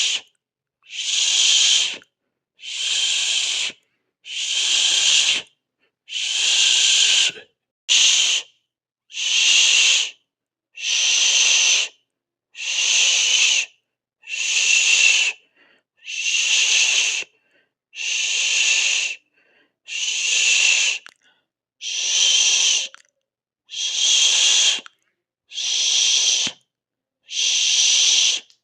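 A person hissing through the mouth over and over, each hiss about a second long, followed by a short silent gap, roughly one every one and a half to two seconds.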